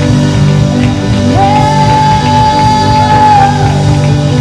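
Live rock-style worship band playing, with a singer holding one long note from about a second in until near the end.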